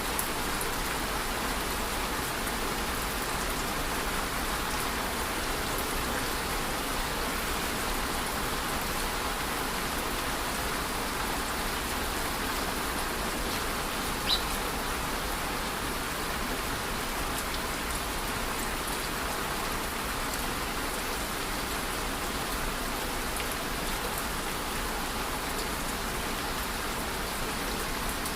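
Steady rain falling on a surface, an even patter of many drops, with one sharper single drop standing out about halfway through.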